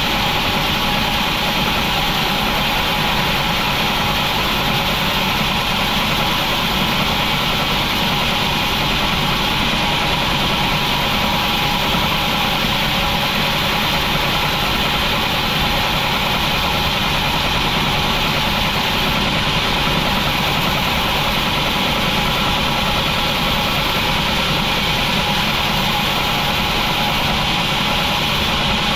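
Sawmill machinery running steadily: a constant, engine-like drone that holds the same level throughout.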